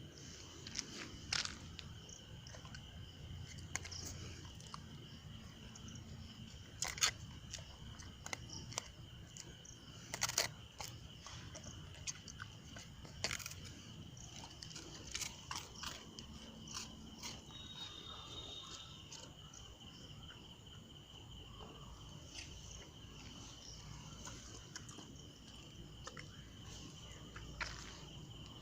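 A steady, high insect trill, with scattered sharp clicks and crunches throughout.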